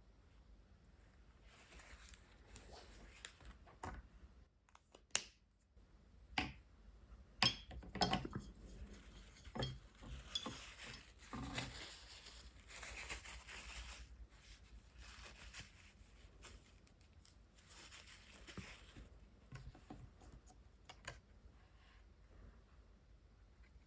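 Brush-tip water-based markers stroking across watercolour paper in soft, scratchy passes, broken by sharp clicks and clinks of the plastic markers being handled and set down, several of them close together between about five and ten seconds in.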